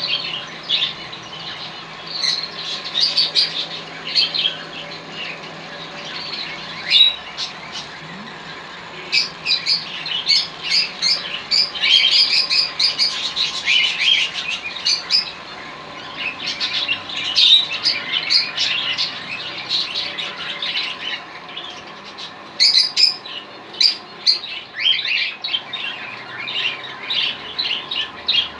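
Ornamental pet birds, a parrot among them, chirping and squawking in dense runs of short, high calls, with brief lulls.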